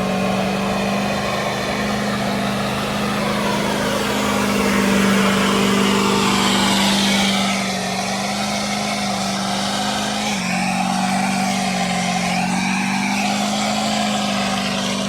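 A truck's engine held at high, nearly steady revs during a burnout. The revs dip slightly about ten seconds in and then climb back.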